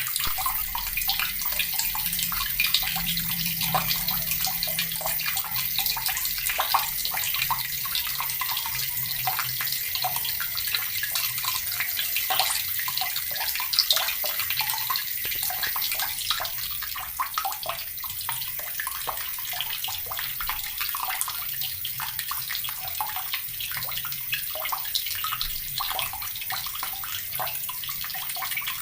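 Water running from a tap and splashing steadily, a dense, continuous patter of small splashes.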